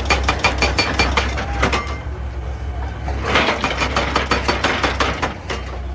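An excavator's diesel engine runs steadily under two spells of rapid clattering knocks, from rock being worked and falling around the machine.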